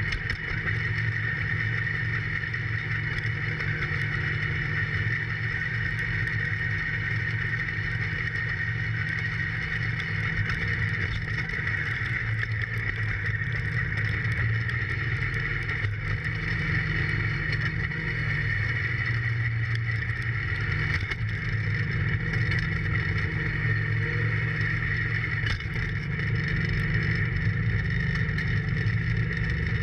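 John Deere 4110 compact tractor's three-cylinder diesel running steadily while working, its pitch sagging for several seconds around the middle before coming back up.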